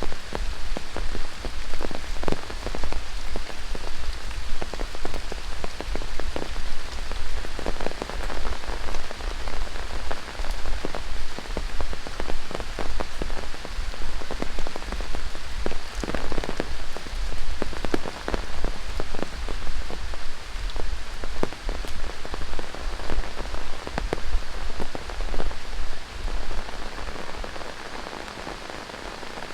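Rain falling in a tropical rainforest, with many close, irregular drop hits over a steady hiss. The patter eases near the end.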